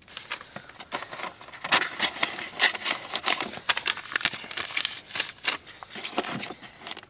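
Paper car documents, such as an owner's manual and insurance papers, rustling and crinkling as they are handled, with many irregular sharp clicks and taps.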